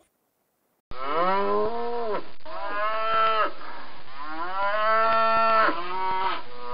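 Domestic cow mooing: about a second in it begins a run of about four long moos, one after another, with little gap between them.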